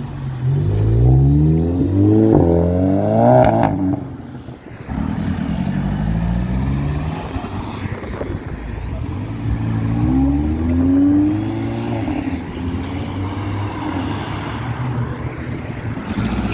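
Car engines accelerating hard away. One engine revs up steadily in pitch for about four seconds and cuts off with a couple of sharp cracks. A second car's engine climbs in pitch about ten seconds in.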